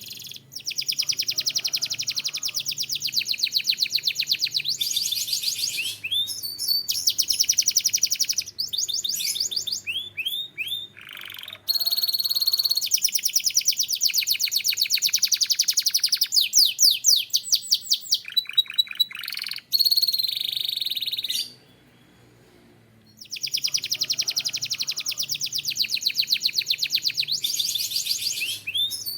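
Canary singing: a long song of fast trills, each a rapid run of repeated high notes, changing from one trill to the next every second or two. It breaks off for about a second and a half roughly three-quarters of the way through, then starts again with another trill.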